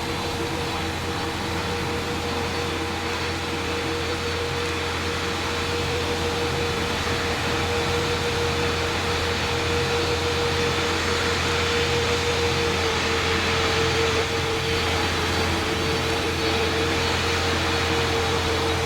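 Aircraft engine noise: a steady rushing hum with a held mid-pitched tone, slowly growing louder.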